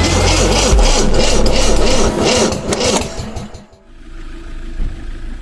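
A vehicle engine running loudly, then dropping sharply about three and a half seconds in to a quieter, steady idle.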